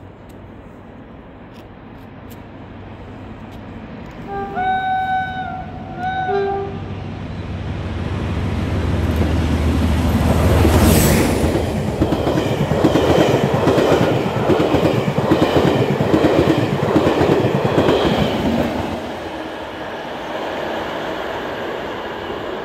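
Locomotive-hauled charter train passing through a station: two short blasts on the locomotive's horn about five seconds in, a rising rumble as the locomotive goes by about ten seconds in, then the rhythmic clickety-clack of the coaches' wheels over rail joints, easing off near the end.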